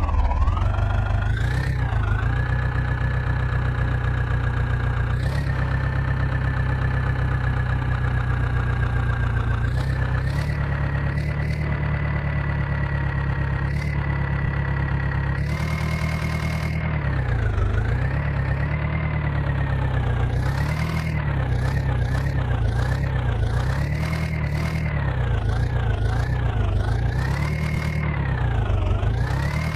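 Diesel engine of heavy farm or earthmoving machinery running under load. It holds a steady speed at first, then from about halfway revs up and down repeatedly, roughly every two seconds.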